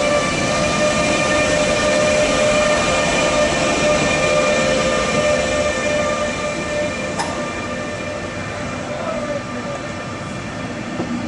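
Passenger coaches of a locomotive-hauled train rolling past along a platform: a steady rumble with a high whine in several tones that fades out about seven seconds in, and a single sharp click around then.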